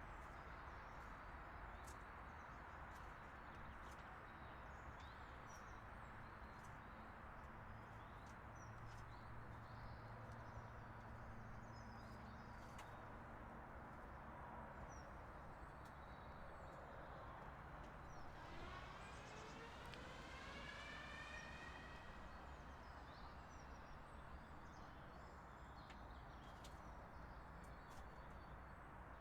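Faint, scattered short chirps of small birds over a steady low rumble of outdoor background noise. About two-thirds of the way through, a pitched sound with several overtones rises in pitch for about three seconds.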